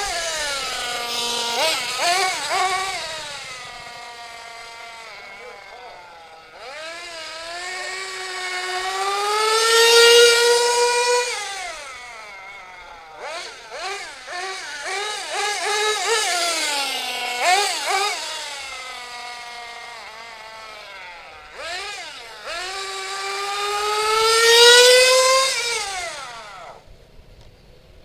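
The small .21 nitro engine of a vintage Kyosho USA-1 monster truck running hard as the truck drives: its high, buzzing note climbs in pitch and loudness and falls away again three times, with short throttle blips in between. It is loudest around ten seconds in and again near the end, and stops about a second before the end. The owner thinks the engine is running a tiny bit lean.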